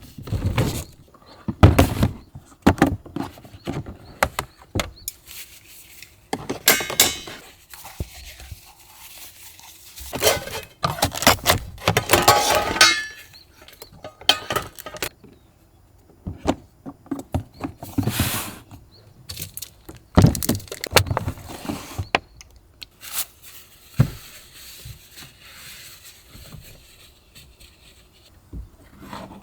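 A run of irregular knocks, thunks and clatters of objects being handled and set down, with a longer squeaking scrape about twelve seconds in.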